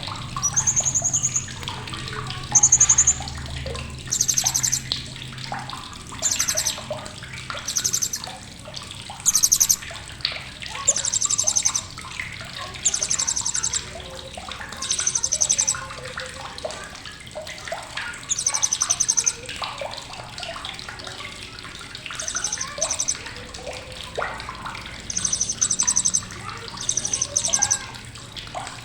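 Blue-crowned hanging parrot (srindit) giving sharp, high-pitched chattering bursts, each a rapid trill of about half a second to a second, repeated every one to two seconds. Fainter chirps from other birds and a steady hiss run underneath.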